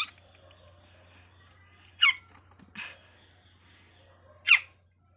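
A rescued bird giving short, shrill chirps, four in all at irregular intervals, each one falling steeply in pitch.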